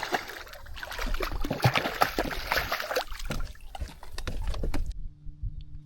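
Water splashing and sloshing with sharp crackles as a hooked redfish is fought at the surface beside the boat. The splashing cuts off suddenly about five seconds in, leaving a quiet low hum.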